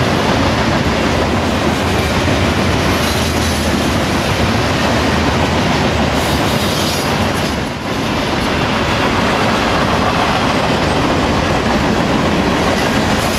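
A freight train's covered hopper cars rolling past, their steel wheels giving a steady loud rumble and rattle on the rails, with a brief dip in loudness about 8 seconds in.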